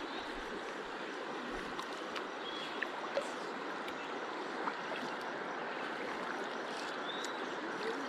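Steady rush of the river's flowing water, with a few faint short high chirps and small ticks over it.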